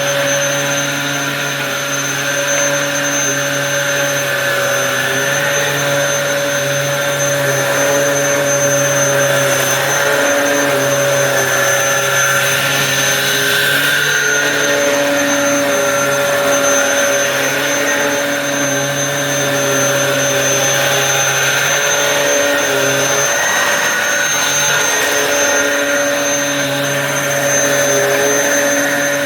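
Dyson DC07 upright vacuum cleaner running at full power, loud and steady, with a high whine over the motor's hum. A lower hum cuts in and out throughout as it is worked over the carpet.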